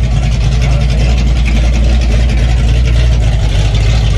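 A car engine idling loudly and steadily, with a deep, even tone.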